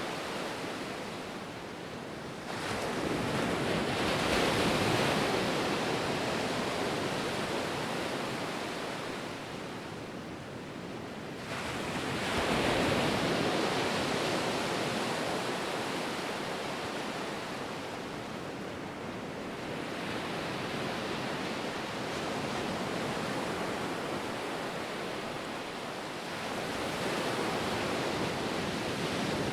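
Ocean waves breaking and washing on shore, a steady rush of surf that swells with a bigger wave about 2.5 s in, again about 12 s in and more gently near the end.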